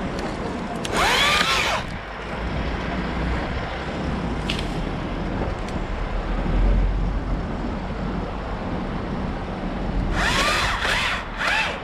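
Battery-powered top-handle chainsaw (Stihl MSA 161 T) revved briefly, once about a second in and two or three times near the end. Its motor whine rises and falls with each trigger pull. Wind noise runs throughout.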